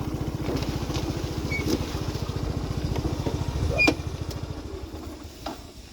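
Small motorcycle or scooter engine running with an even, fast putter, fading away over the last two seconds.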